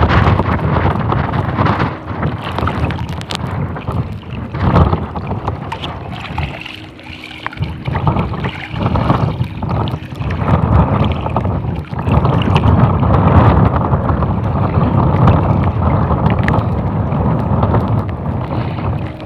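Strong wind buffeting the microphone in gusts, easing briefly about seven seconds in before rising again.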